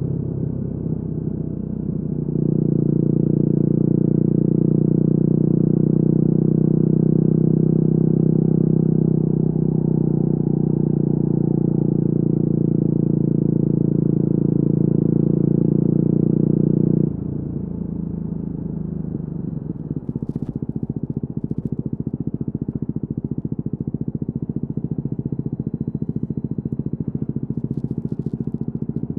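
Yamaha WR250R single-cylinder engine through an FMF Q4 exhaust, running steadily under throttle. A little past halfway the throttle closes and the engine drops to a lower note, then settles into an idle with evenly spaced firing pulses.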